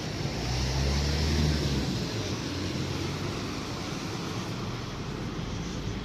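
Road traffic: a passing vehicle's engine and tyre noise, loudest between about half a second and two seconds in, settling into a steady low street hum.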